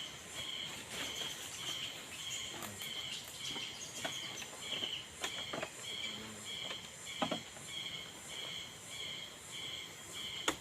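A high animal chirp repeating evenly, about three times every two seconds, with scattered sharp clicks and knocks.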